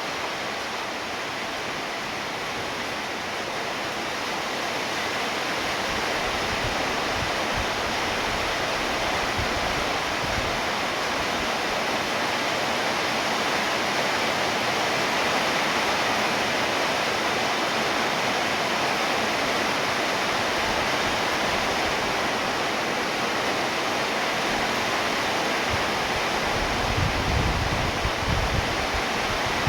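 Steady heavy rainfall, a dense even hiss that swells slightly about five seconds in. A few low rumbles come near the end.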